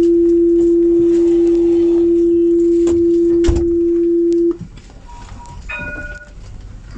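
The Alstom Citadis 402 tram's electronic warning tone: one loud, steady, pure electronic tone held for about five seconds, then cut off suddenly. A click sounds partway through, and a few short, quieter electronic tones at different pitches follow near the end.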